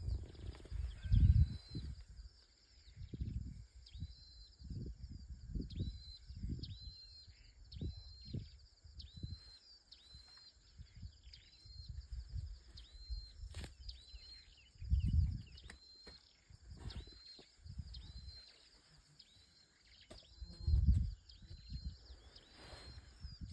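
A bird repeats a short, high call, a quick upward hook, about once a second, over low, irregular rumbling of wind on the microphone. The wind gusts are the loudest sounds, about a second in, around midway and near the end.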